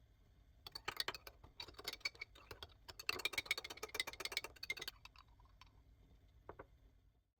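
Rapid light clicking and tapping of kitchen utensils, lasting about four seconds, followed by a couple of single clicks.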